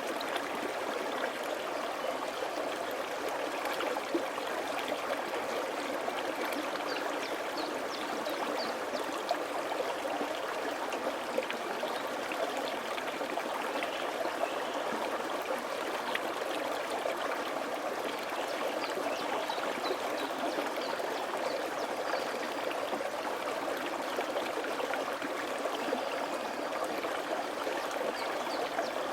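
Mountain stream flowing over rocks: a steady, even rush of water with small splashes and trickles.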